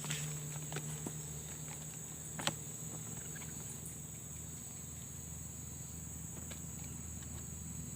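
Insects, crickets among them, trilling steadily in a high, even tone. A low steady hum runs underneath, and there are a few sharp clicks, the loudest about two and a half seconds in.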